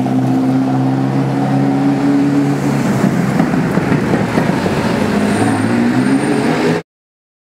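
Ferrari F40's twin-turbocharged V8 running at low, steady revs, turning rougher and noisier from about halfway through. The sound cuts off suddenly near the end.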